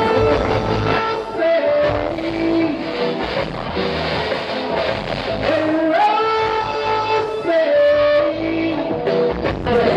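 Live reggae band playing with a singer, who holds long sung notes over guitar and bass.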